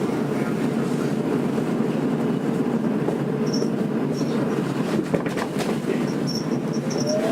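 Tokyo Metro 02 series subway train running between stations, heard from inside the car: a steady rumble of wheels on rail. Short high wheel squeals come in the second half, and a faint rising tone starts near the end.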